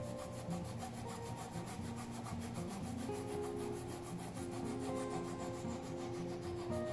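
Flush-cut saw cutting a protruding stepped wooden dowel peg off flush with the board surface: a steady rasping rub of the saw teeth on wood, with soft background music.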